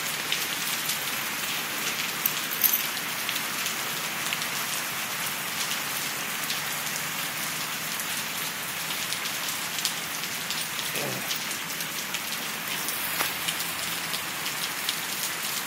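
Heavy rain pouring down steadily, with many individual drops ticking sharply close by.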